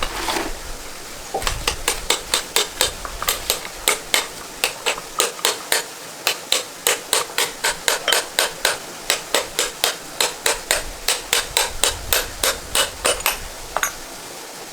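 Steady hammering: a quick, even run of hammer blows, about three to four a second, which starts a second or so in and stops shortly before the end.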